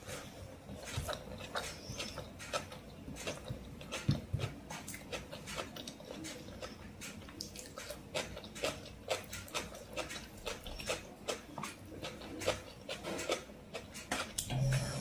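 Close-miked eating: wet chewing with many quick, irregular mouth clicks and smacks as a person eats rice and chicken curry by hand.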